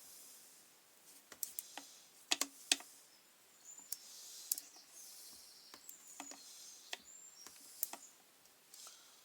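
Close-up handling noises of hand work on a grass trimmer's fuel line and plastic parts: irregular sharp clicks and taps, with short stretches of soft scraping and rubbing.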